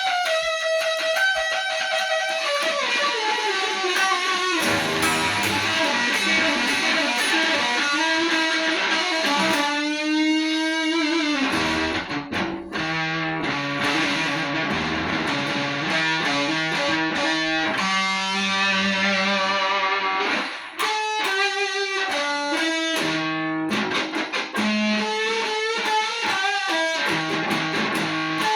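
Electric guitar playing a solo of sustained notes, some bent and wavering, over a low bass part that comes in about four and a half seconds in.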